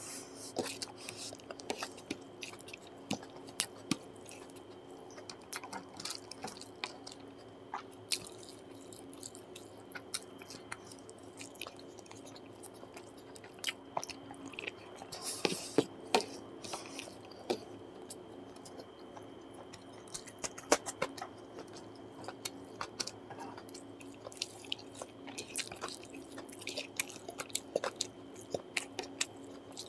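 Close-miked chewing of handfuls of curry-soaked basmati rice, with many short wet mouth clicks and smacks, busier about halfway and again near the end. A faint steady hum runs underneath.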